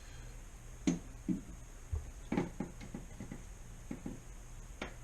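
Pliers and wire handled while a splice connector is squeezed shut: about nine scattered clicks and knocks over a low steady hum.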